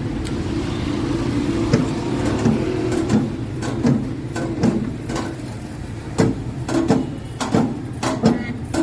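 Sharp knocks repeating over a steady low hum, coming more often and louder in the second half, about two a second near the end.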